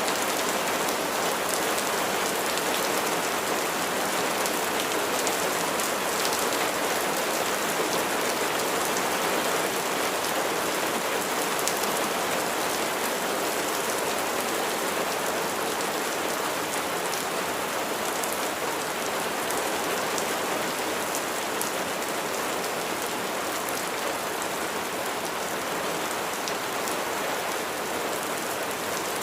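Steady rain falling, with individual drops pattering on a surface over an even hiss.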